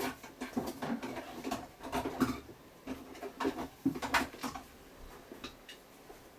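Rummaging for a craft punch: a run of irregular clattering knocks and clicks, dying away about four and a half seconds in, with a few light ticks after.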